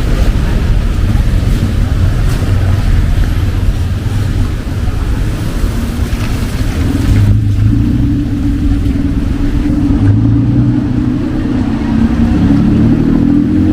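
Heavy rain on a city street mixed with the low rumble of vehicle engines. The rain's hiss eases about seven seconds in while the engine rumble grows.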